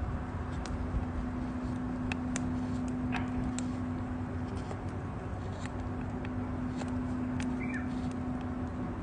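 Wood campfire burning, with scattered sharp crackles and pops over a steady low hiss and hum.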